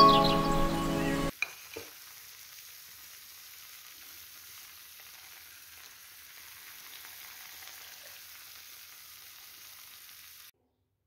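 Background music that cuts off about a second in, then a couple of clicks and a faint, steady sizzle of the macaroni in the pan, which stops abruptly near the end.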